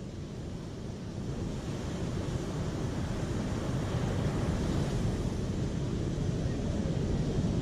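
Rushing water, a steady noisy wash that grows gradually louder.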